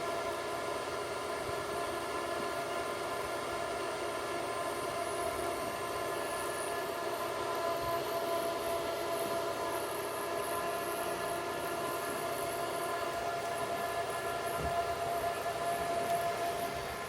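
Refrigerator condenser fan motor running: a steady whine of several high tones over an even rush of air from the fan.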